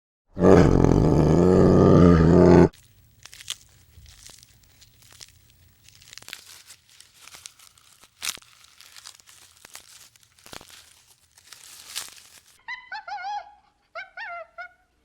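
A loud animal call lasting about two seconds, then faint crunching and rustling with scattered clicks, then a few short honking bird calls near the end.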